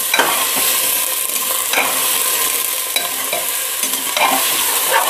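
Chopped jackfruit and onion sizzling as they fry in mustard oil in an aluminium pressure cooker, stirred with a metal spatula that scrapes and knocks against the pot several times.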